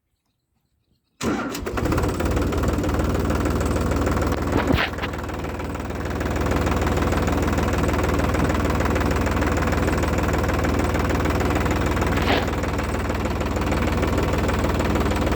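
Tractor's diesel engine running steadily, cutting in after about a second of silence. Two brief sharp sounds stand out over it, about five and twelve seconds in.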